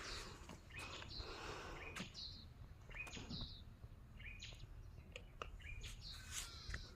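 Faint birds chirping: short, sharp calls repeated every second or so, with a few light clicks in between.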